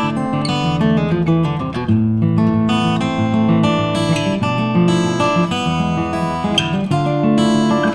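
Background music: acoustic guitar playing chords and notes.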